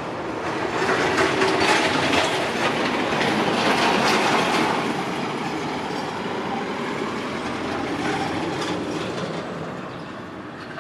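A train passing by, its cars clattering over the rails: the noise swells up over the first couple of seconds, holds, then slowly fades.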